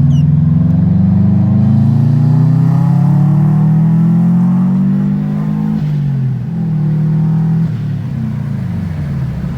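Subaru WRX turbocharged flat-four through a loud aftermarket exhaust, accelerating hard. The engine note rises steadily, drops suddenly about six seconds in and again near eight seconds, as at gear changes, then falls away.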